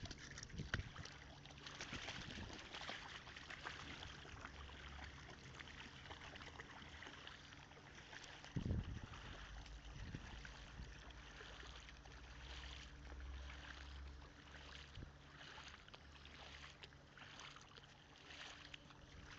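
Faint running and trickling water from hailstorm runoff, with many small ticks over a steady low hum, and one dull thump about nine seconds in.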